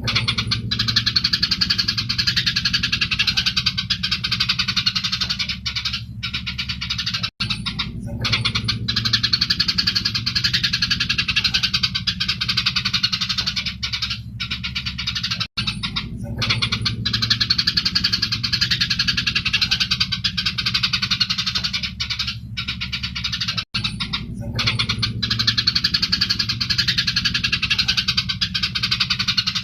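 Eurasian tree sparrows giving dense, busy fighting chatter, as a looped recording that repeats about every eight seconds with a brief dropout at each join. A low steady hum runs underneath.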